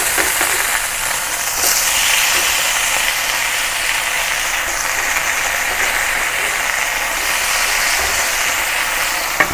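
Pork chops frying in hot oil in a stainless steel skillet: a steady sizzling hiss that swells briefly about two seconds in, as the browned chops are turned over with metal tongs.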